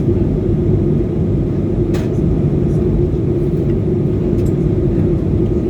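Steady airliner cabin noise in flight: an even low rumble with a constant hum, and one short click about two seconds in.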